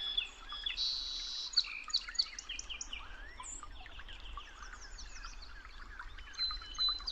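Several birds chirping and singing at once, a dense mix of short, quick high notes and trills.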